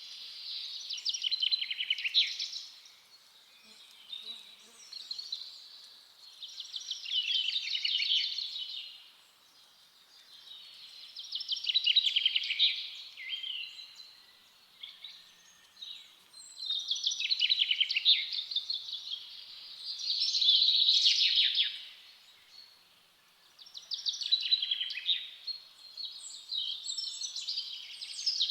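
Forest songbirds singing in a series of rapid trilling phrases, one every few seconds, with short pauses between them.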